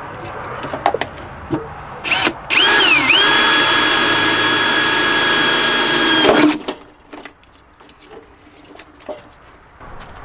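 Power drill: a short trigger blip, then about four seconds of steady running whose pitch dips once as the bit loads up before settling, stopping abruptly. Small clicks and knocks of handling come before and after.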